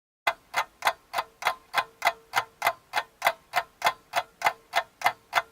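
Clock ticking, evenly at about three and a half ticks a second, starting just after the opening silence.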